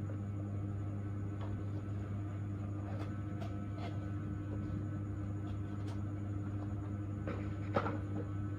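Steady low hum of dental equipment running, with a few light clicks and taps of instruments scattered through it and a sharper click near the end.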